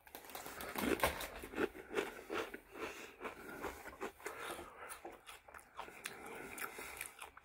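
Someone chewing a Doritos tortilla chip: a run of irregular crunches, loudest in the first couple of seconds, settling into softer chewing.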